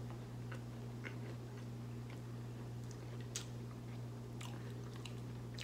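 A man chewing a mouthful of fried spicy chicken sandwich, with faint short mouth clicks every second or so, the clearest about three and a half seconds in. A steady low hum sits under it.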